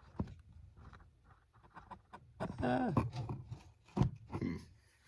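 Handling noise from a camera being set up on a tripod: rubbing and scraping, a short grunt about halfway through, then a couple of knocks near the end.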